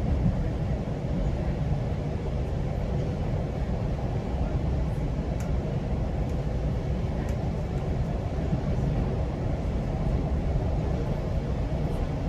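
Steady low rumble of a GO Transit commuter train running along the line, heard from on board: wheels on rail and running gear.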